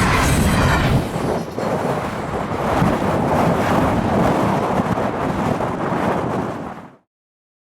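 Freight train rolling past, a steady rumble and rush of wagons on the rails, with wind buffeting the microphone. The sound cuts off abruptly near the end.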